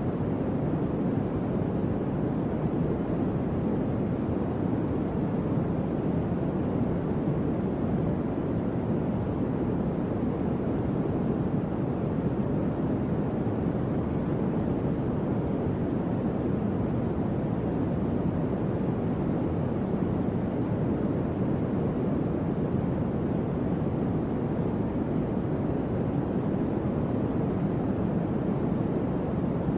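Electric fan running steadily: an even, low whooshing rush of moving air with no changes.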